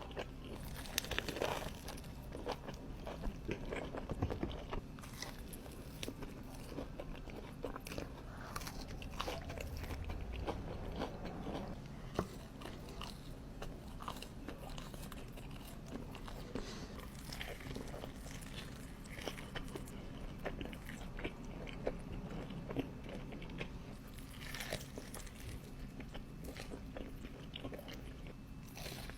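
Close-miked eating of Buffalo Wild Wings food: repeated crunchy bites and chewing, irregular crackly crunches throughout, with a louder cluster of bites near the start and again near the end.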